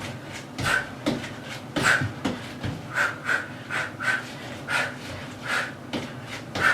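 A person panting hard, with short forceful breaths out, about ten in six seconds at an uneven pace. It is the heavy breathing of hard exertion during a fast kickboxing interval.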